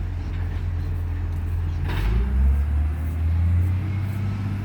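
Recycling truck's diesel engine running with a steady low drone, a brief hiss about two seconds in, after which the engine note rises and stays stronger.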